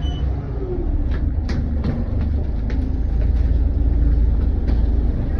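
Volvo B8RLEA bus's diesel engine running with a steady low rumble, with a scatter of light clicks and knocks over it.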